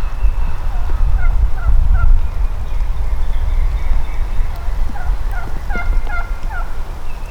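Wild turkey calling: a short series of three or four quick hooked notes about a second in, and another of about five notes near the end, over a heavy low rumble.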